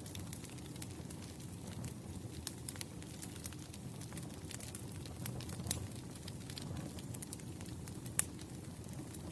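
Wood campfire burning, with a steady low rumble of the flames and scattered sharp crackles and pops, a louder pop about eight seconds in.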